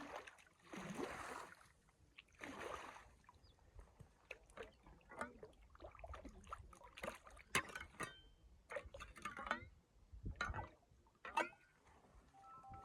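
Water sloshing or pouring in two short swells, followed by a string of sharp clicks and knocks, some ringing briefly.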